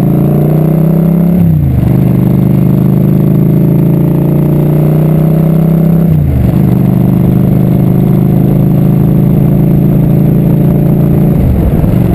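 Motorcycle engine pulling under acceleration while riding. The engine note rises and drops sharply three times, about a second and a half in, about halfway through and near the end, as the rider shifts up through the gears.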